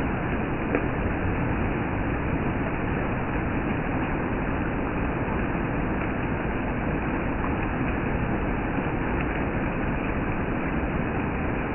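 Steady rain falling, an even unbroken hiss with a few faint ticks.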